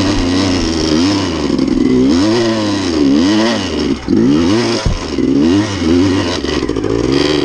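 Dirt bike engine revving hard in repeated rising and falling surges as the rider works the throttle up a steep rocky hillclimb, with a single sharp knock about five seconds in.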